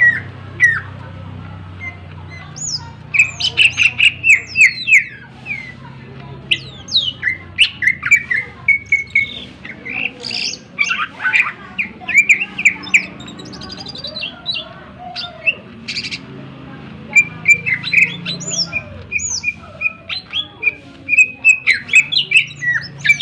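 Cucak ijo (green leafbird) singing loudly in bouts of sharp, rapid chirps and whistled sweeps, with a couple of short pauses. The song is laced with mimicked calls of other birds.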